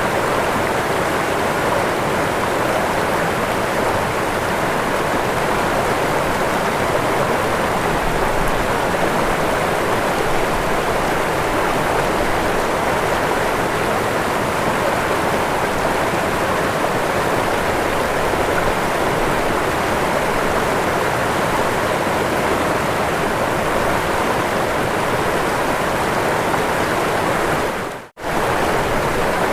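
Waterfall rushing with a steady, even roar of falling water. It cuts out for a split second near the end, then resumes.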